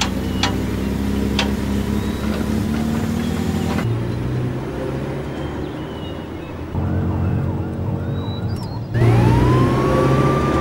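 Rescue-vehicle sound effects: a motor running with a few sharp clicks in the first second and a half, changing abruptly a few times, then a siren wail rising near the end.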